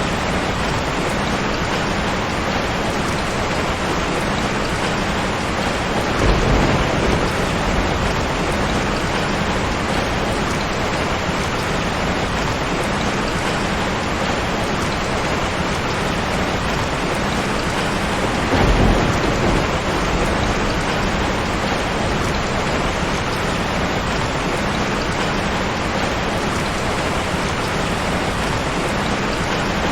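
Steady, heavy rain falling. A short low rumble of thunder swells up about six seconds in and again about nineteen seconds in.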